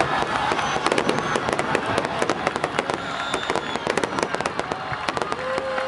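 Large aerial fireworks display: a dense, continuous crackle of many sharp pops from shells bursting overhead, with no single boom standing out.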